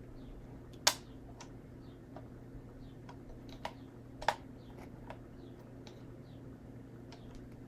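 Plastic Lego pieces clicking and tapping as they are handled: scattered light clicks, with two sharp, louder clicks about a second in and after about four seconds, over a low steady hum.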